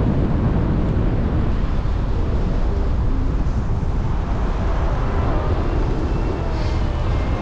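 Wind rushing over the microphone in flight, a loud steady low rumble with hiss.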